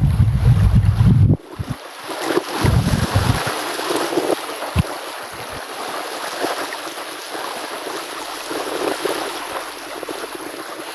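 Wind buffets the microphone for about the first second and a half. Then comes the steady rush of river rapids.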